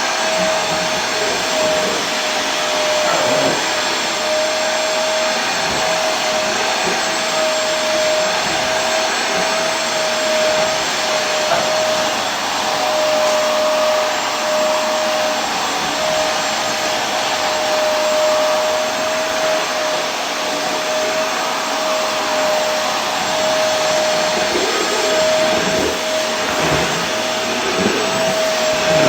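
Vacuum cleaner running steadily: a constant rushing whoosh of air with a steady motor whine held at one pitch.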